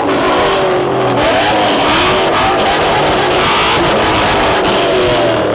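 A car engine revving hard, its pitch climbing and dropping several times in a row.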